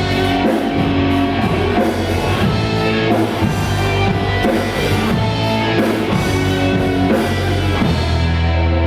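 Rock band playing, with guitar and drums. About eight seconds in the drums stop, leaving held guitar notes ringing.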